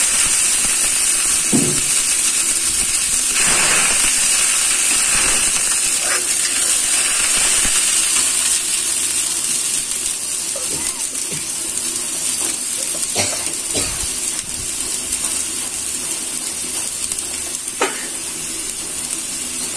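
Onion, chili and ginger-garlic paste sizzling in oil in a metal karahi, with a little water just added. A steady hiss slowly dies down, and the spoon stirring the pan clicks and scrapes against it a few times.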